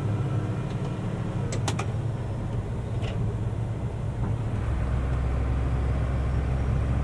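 Mercedes-Benz Unimog U500's turbo diesel engine running at low speed, heard from the cab; about four and a half seconds in its note settles into a deeper, stronger steady drone. A couple of sharp clicks sound about a second and a half in.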